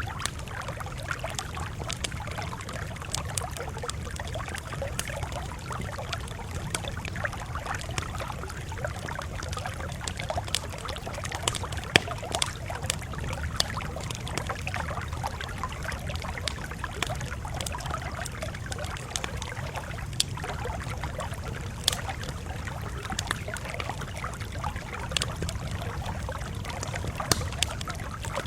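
Campfire crackling, with irregular sharp pops over a steady low rumble; one pop about twelve seconds in is louder than the rest.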